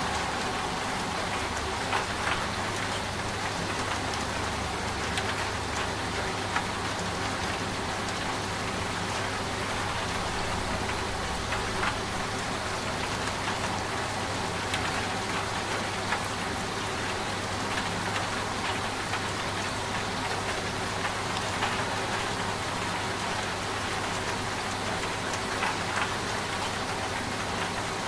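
Steady rain patter with scattered sharp drop ticks, over the low, steady hum of a washing machine running.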